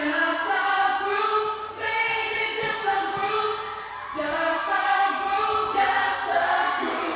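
Background music: a choir-like group of voices singing held notes in harmony, in phrases that break about every two seconds, with no beat.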